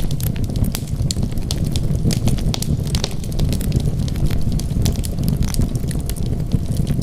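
Wood fire crackling, with many small irregular pops and snaps over a steady low rumble of burning.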